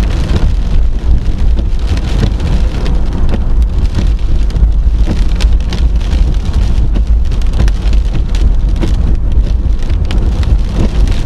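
Heavy rain: a dense, constant patter of drops striking a surface, over a strong steady low rumble.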